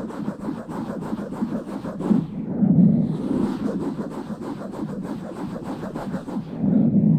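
Rubbing and scratching directly on an uncovered microphone: a dense run of fine scratches over low rumbling swells, loudest a little under three seconds in and again near the end.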